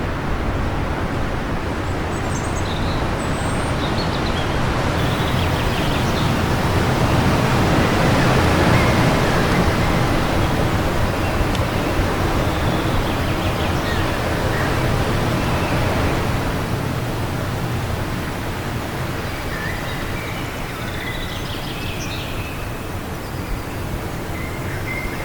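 Wind gusting steadily, swelling about a third of the way in and easing off toward the end, with faint, scattered birds chirping over it, mostly early on the high side and again near the end.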